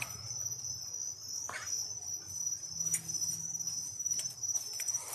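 Crickets chirping steadily in a high, continuous drone, with a few faint clicks over it.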